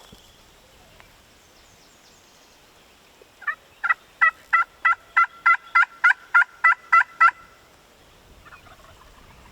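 A run of about a dozen loud turkey yelps, evenly spaced at roughly three a second, starting a few seconds in and lasting about four seconds.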